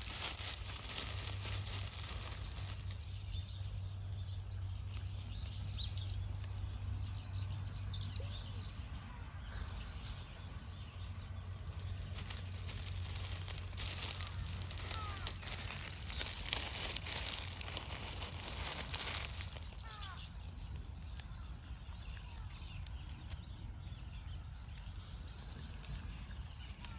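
Outdoor ambience: steady wind and rustle noise with a low hum, and a few faint bird chirps.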